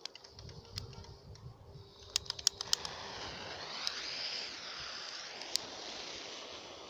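Campfire crackling: scattered sharp pops, with a quick cluster of loud ones about two seconds in, then a steady rushing hiss that sets in about three seconds in.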